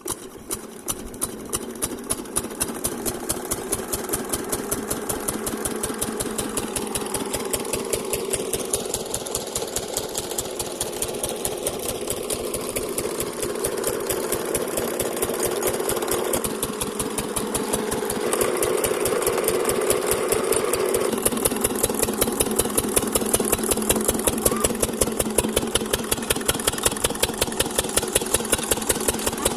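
Single-cylinder 12 hp diesel pump-set engine picking up right at the start and then running with a steady, even beat of knocking firing strokes. It gets gradually louder.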